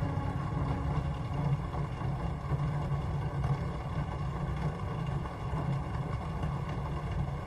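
Steady rain ambience, a low rumbling noise with no clear rhythm or pitch.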